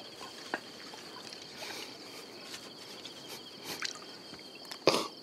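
Insects chirring steadily in two high, fast-pulsing tones, with scattered soft clicks and one sharp knock near the end.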